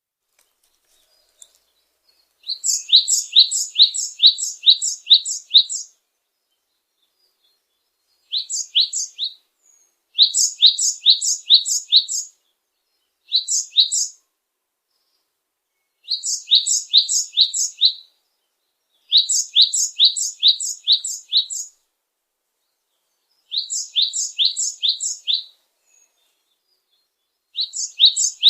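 A bird singing in repeated phrases, each a quick run of high chirps at about four a second, lasting one to three seconds, with short silent pauses between phrases.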